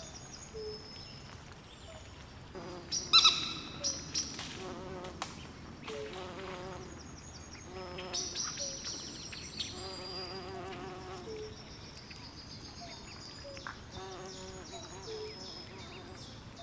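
Night swamp chorus: frogs calling in short, repeated pulsed croaks, over continual high-pitched insect chirping. A louder, sharp call stands out about three seconds in.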